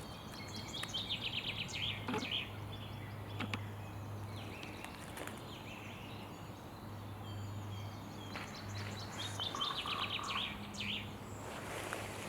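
A small bird singing rapid trills of quick repeated notes, once near the start and again near the end, over a steady low hum, with a few isolated sharp clicks.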